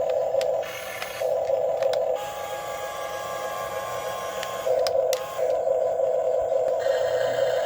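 Small electric gear motors of a Huina 1550 RC excavator whining as it works, the whine breaking off briefly about a second in and changing tone between about two and five seconds in, as different motors start and stop.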